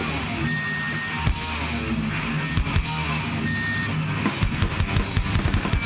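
Live hardcore band playing an instrumental passage: held low guitar and bass chords with cymbal crashes, then the drums break into a fast beat about four seconds in.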